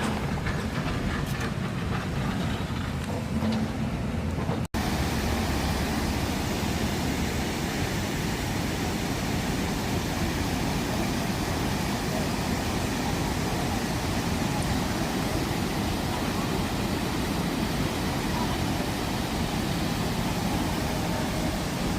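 A motorcycle engine running for the first few seconds, then a sudden cut to a steady, even rushing noise.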